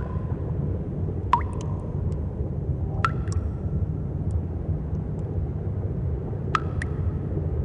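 Water drops falling in a cave, three single plinks a few seconds apart, each with a short ringing tone, over a steady low rumble.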